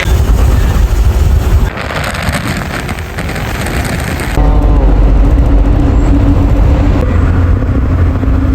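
Loud, low road-vehicle rumble, with abrupt changes about two and four seconds in. From about halfway a steady hum runs under it.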